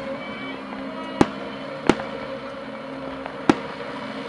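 Aerial fireworks shells bursting: three sharp bangs, about a second in, just before two seconds and at about three and a half seconds. Music plays underneath from a radio.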